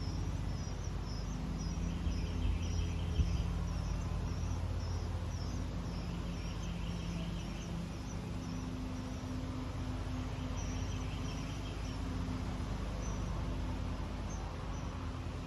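Steady low hum with a run of short high chirps through it, and buzzy trills a few seconds long about 2, 6 and 10 seconds in.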